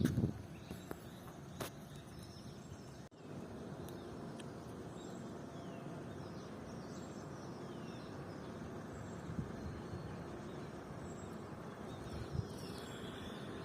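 Outdoor ambience: a steady background hiss with faint bird chirps and short calls scattered throughout, broken by a brief dropout about three seconds in.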